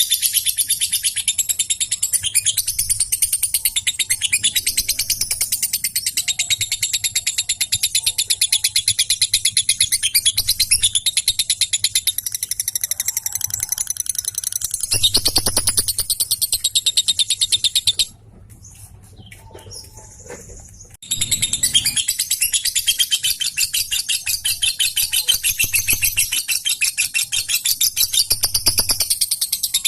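Lovebird in full song, giving a long, very fast chattering trill of high chirps (the 'ngekek' call). It breaks off once, a little past the middle, for about three seconds, then starts again just as fast.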